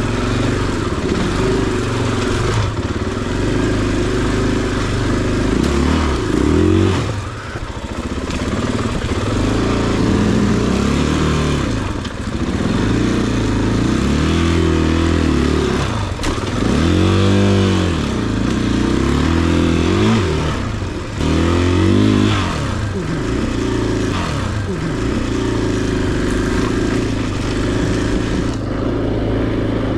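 Large single-cylinder four-stroke enduro dirt bike engine running under load, its revs rising and falling over and over as the throttle is worked.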